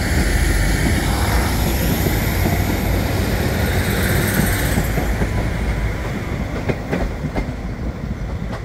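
Two Northern diesel multiple units departing together: a Class 195 pulling out close alongside and a Class 150 Sprinter leaving on the adjacent line, engines running under power. A high whine falls away about five seconds in, and the running gets quieter after that, with a few wheel clicks over the track near the end.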